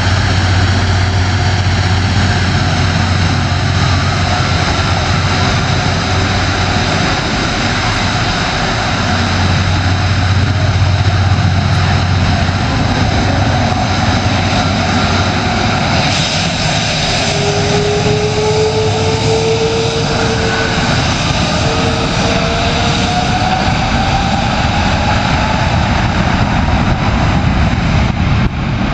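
Jet airliner's engines running loud and steady, a thick roar laced with whining tones; past the middle a whine slides upward in pitch.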